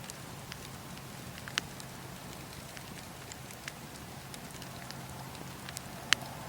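Wood fire in a fireplace crackling: a steady low hiss with scattered sharp pops, two louder ones about one and a half seconds in and near the end.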